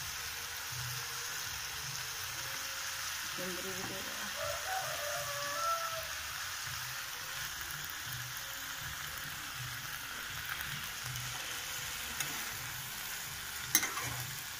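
Sliced mushrooms and ivy gourd (kunduri) sizzling steadily in oil in a non-stick frying pan as a steel spatula stirs them. There is a sharp knock near the end.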